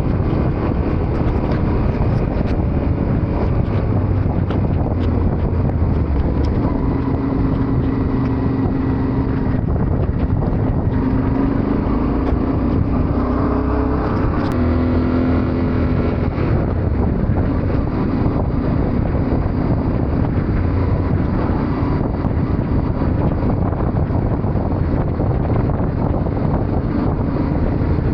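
Yamaha Ténéré 700's parallel-twin engine running under way, heard onboard with wind on the microphone. The engine note rises and falls a few times about halfway through as the revs change.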